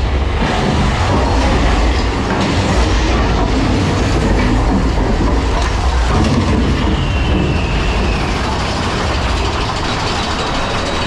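Mine-train roller coaster running along its track, heard from aboard the train: a loud, steady rumble and clatter of wheels with rushing air. A faint high squeal slides down in pitch about seven seconds in.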